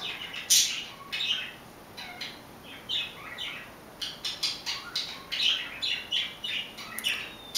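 A bird chirping in many short, high calls, one after another with brief gaps.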